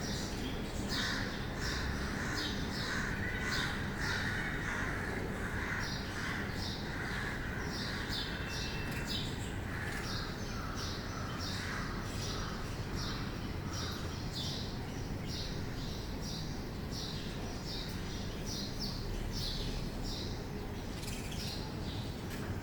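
Birds calling: a steady series of short, high chirps, about two to three a second, over a busier lower chorus of calls that fades out about halfway through.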